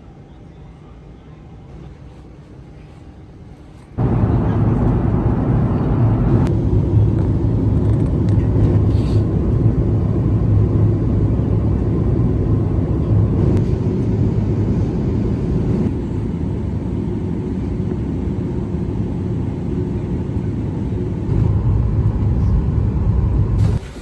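Steady low rumble of a vehicle running, starting abruptly about four seconds in and cutting off just before the end, after a quieter opening stretch.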